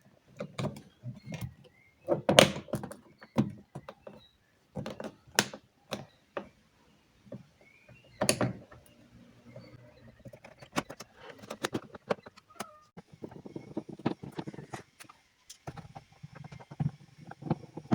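Car door reassembly on an Alfa Romeo 166 front door: a run of irregular plastic clicks and knocks as trim and fittings are pushed and fastened home, with a few louder thunks. The densest clicking comes near the end.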